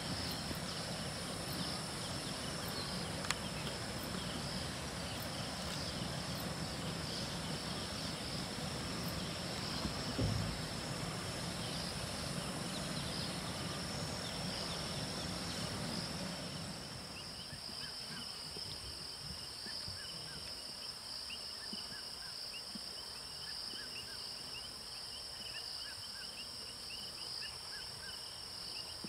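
African bush ambience: a steady high-pitched insect drone with many quick chirping calls over it. A low rumble underneath stops about sixteen seconds in.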